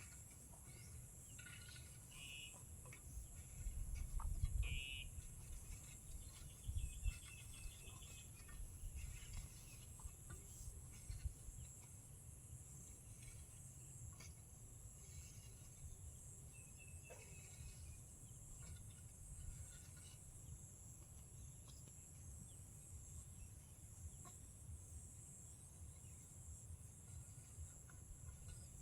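Chickens clucking in short calls during the first ten seconds, over a steady high drone of crickets, with a low rumble about four seconds in and another around seven seconds.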